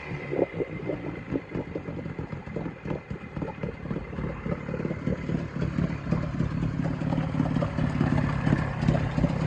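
1970s Yamaha 20A two-stroke outboard engine running with a rapid, uneven pulsing beat, growing a little louder in the second half.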